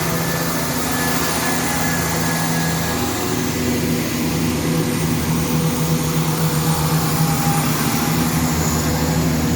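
Diesel multiple unit's engine running steadily, a constant low hum with a couple of held tones.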